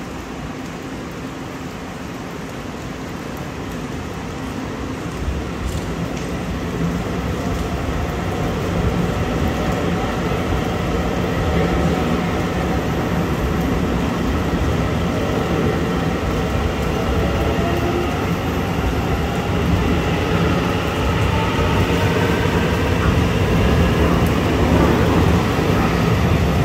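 Train running on rails, its rumble growing steadily louder, with faint gliding whines above it.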